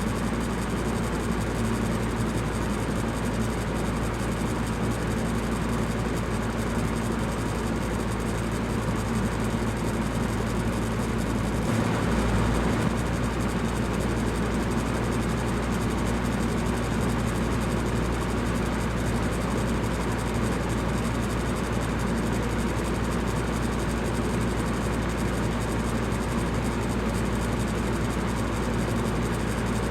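Electric fan running steadily: an even whoosh of moving air over a low motor hum, briefly a little louder about twelve seconds in.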